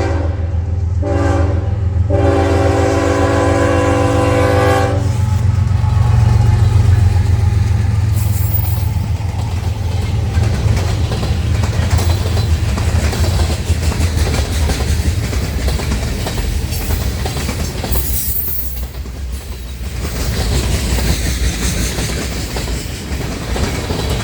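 A passing train: its diesel locomotive's air horn sounds in short blasts with two brief breaks, the last ending about five seconds in, then the low engine rumble and clatter of wheels on the rails carry on as the train goes by.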